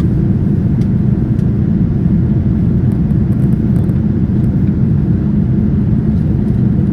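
Steady cabin noise inside a Boeing 787-9 Dreamliner: a constant low rumble of engines and airflow, with a few faint clicks.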